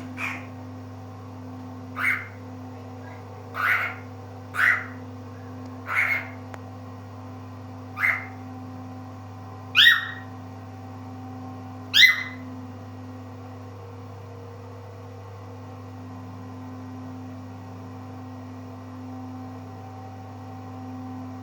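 Tame cockatiel giving short, sharp calls, about eight of them one to two seconds apart, stopping about twelve seconds in. A steady low hum runs underneath.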